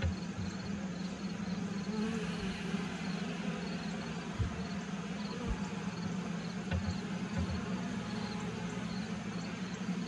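Honeybees buzzing as a steady hum from an open horizontal hive. A faint high chirping repeats about twice a second throughout, and there are a few soft low thumps.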